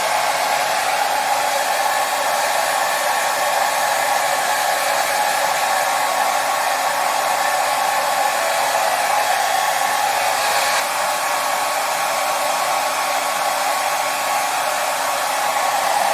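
Hair dryer running steadily, an even rushing of blown air with a faint steady motor hum.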